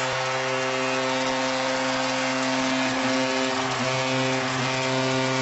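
Arena goal horn sounding one long steady tone over a cheering crowd, signalling a home-team Avalanche goal.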